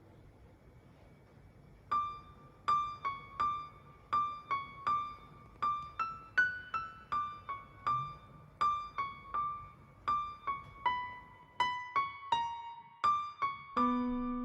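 Background music: a gentle electric-piano melody of single notes, about two a second, starting about two seconds in after a faint hush. A sustained low note enters near the end.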